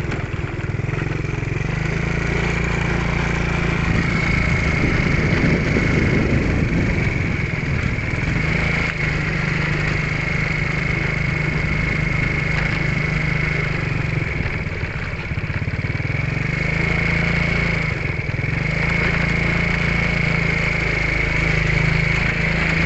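Motorcycle engine running while riding, its pitch rising and falling several times with the throttle over rough road, with a steady high whine throughout.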